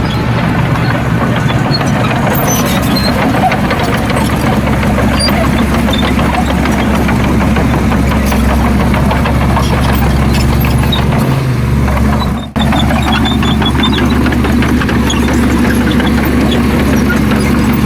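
Heavy diesel engine of earthmoving machinery running steadily, with scattered light metallic clinks; the level drops out briefly about twelve seconds in.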